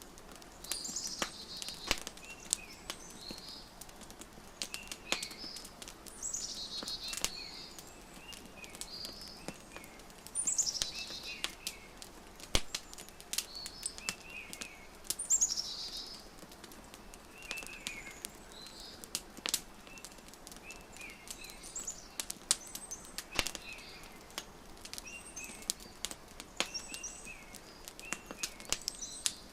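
Wood fire crackling with frequent sharp pops, mixed with songbirds chirping over and over in short calls, some of them quick falling trills.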